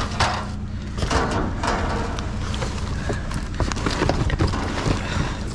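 Discarded household items being rummaged through in a dumpster: irregular knocks, clatter and rustling of objects being moved, over a steady low hum.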